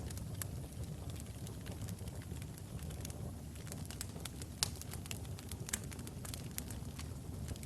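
Wood fire burning logs in a fireplace: a steady low rumble of the flames with scattered sharp crackles and pops, the loudest pop about four and a half seconds in.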